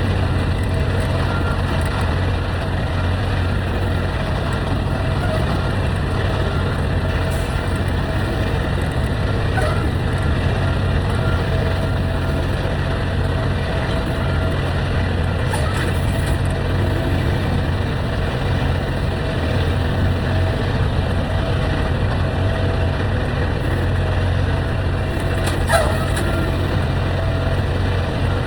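A heavy truck's engine running with a steady low drone, heard from the cab. There is a faint steady whine above it and one brief click near the end.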